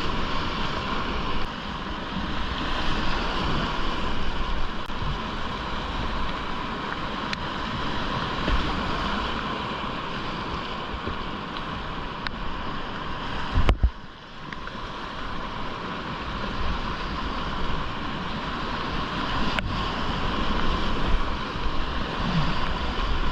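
Whitewater rapids rushing steadily around a kayak, with wind noise on the action-camera microphone. A sudden loud thump comes a little past halfway, and the water sound is briefly muffled just after it.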